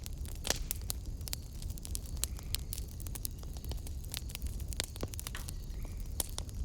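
Wood fire in a fireplace crackling, with irregular sharp pops and snaps several times a second over a low steady rumble.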